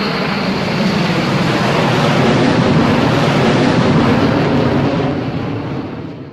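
Airplane engine noise: a steady rushing sound that swells slightly and then fades away near the end.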